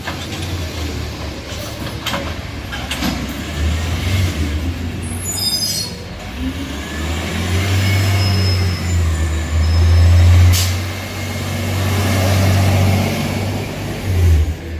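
Garbage truck's diesel engine running, its revs rising and falling several times as it works, with a few sharp metallic knocks and a brief high-pitched hiss of air about five seconds in.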